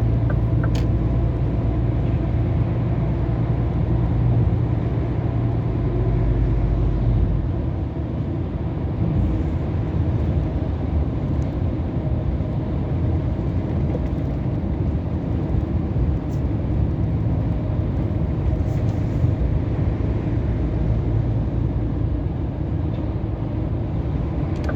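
Scania R500 truck's V8 diesel engine and road noise heard from inside the cab while cruising, a steady low drone. The drone drops in level about seven seconds in and then holds steady.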